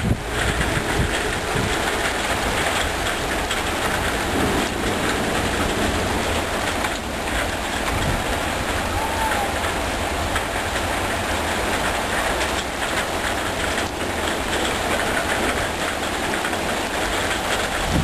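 Steady heavy rain during a thunderstorm, an even hiss with constant low rumble beneath it.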